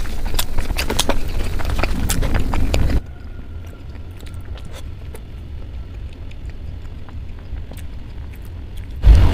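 Close-miked ASMR chewing of hard-boiled egg: wet mouth clicks and smacks over a low rumble. About three seconds in it cuts abruptly to a much quieter stretch of faint clicks and soft handling of a sauce-coated egg, and loud chewing returns near the end.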